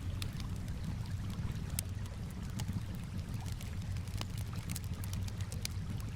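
Wood fire crackling with frequent sharp, irregular pops over a steady low wash of calm water.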